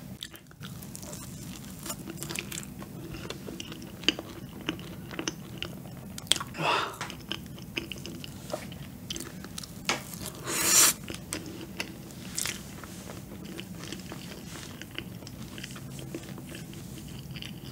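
Close-miked chewing of a soft, chewy cream-filled donut, with many small wet mouth clicks. Two louder, longer chewing or smacking sounds come about a third and two-thirds of the way through.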